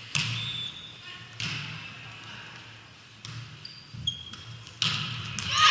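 Game-side crowd sound: spectators calling out in several short bursts, swelling into louder shouting and cheering near the end.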